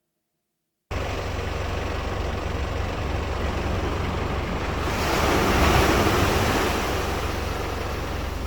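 Ocean surf rumbling with a deep, heavy low rumble. It cuts in abruptly about a second in, and a wave swells louder around the middle.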